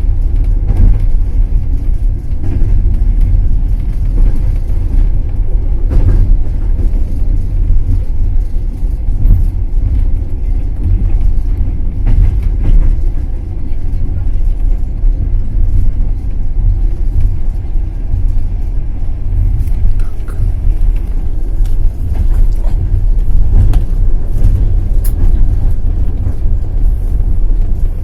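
Passenger train running, a steady low rumble from the wheels on the rails with occasional knocks over rail joints.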